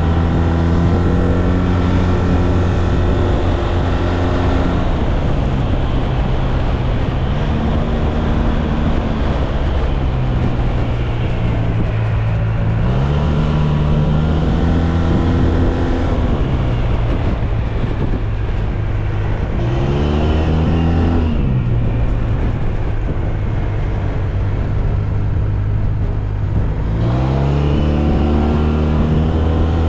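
SYM Maxsym TL 508 maxi-scooter's parallel-twin engine under way. Its pitch rises and falls several times as the throttle is opened and closed, over steady wind and road noise.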